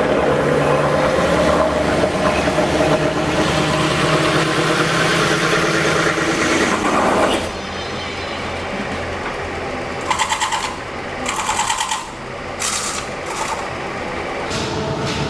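Factory machinery running loudly and steadily, cutting off about halfway. After that comes a quieter machine sound with three short bursts of a fast rattle.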